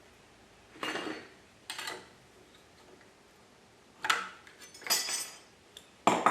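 Short metallic clinks and scrapes, about five in all, as a tool works a bent-over nail loose from an old brass nameplate on a wooden workbench. The last clink is the loudest.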